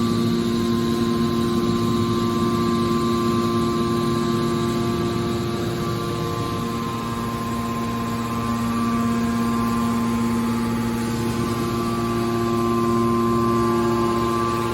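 Hydraulic scrap car baler's power unit running with a steady hum of several fixed pitches.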